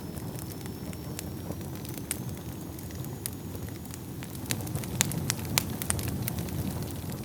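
Wood fire burning in a fireplace: a steady low rumble of flames with sharp crackles and pops from the burning logs, which come thicker and louder about halfway through. A faint, thin, high whistle rises slightly and fades out about four seconds in.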